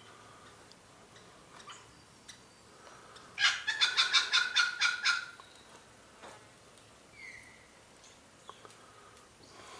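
A bird giving a rapid run of about ten harsh, pulsed calls lasting under two seconds, a few seconds in, followed later by a faint short call.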